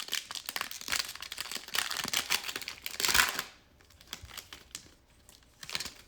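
Foil wrapper of a Panini Prizm basketball card pack crinkling and tearing as it is ripped open: a dense crackle for about three and a half seconds, then a few light rustles and one more short crinkle near the end.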